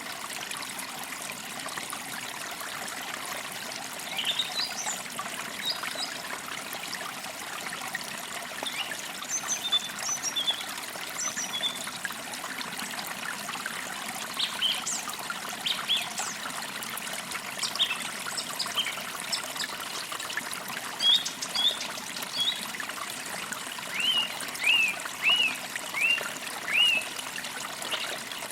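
Forest creek trickling steadily, with small birds chirping over it. Near the end one bird repeats a short, arched whistled note about five times.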